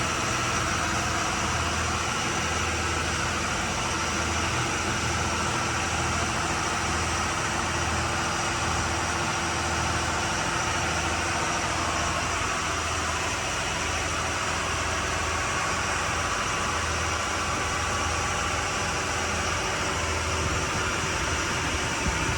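The Bayliner 4788's inboard engines running steadily under way, with a low hum that swells and fades about once a second over a steady hiss.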